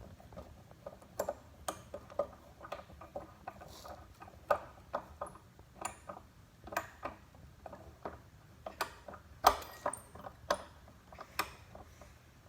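Irregular clicks and ticks of a screw being turned with a screwdriver into a metal ceiling fan mounting bracket, with one louder click a little past the middle.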